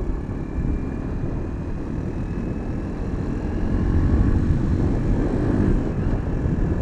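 Pulse Adrenaline 125 motorcycle's 125 cc engine running under way, with a dense wind rumble on the camera's microphone; it gets louder about halfway through.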